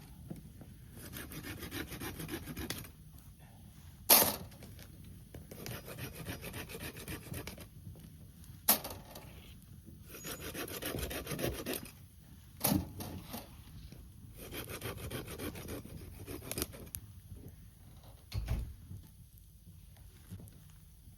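Hand saw cutting firewood in several bouts of rapid strokes, with a few sharp loud knocks between the bouts.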